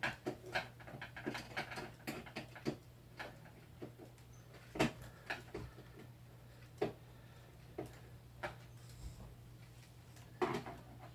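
Clicks and knocks of a plastic electronic keyboard being handled and turned over for disassembly: a quick cluster of taps at first, then single knocks every second or two, over a steady low hum.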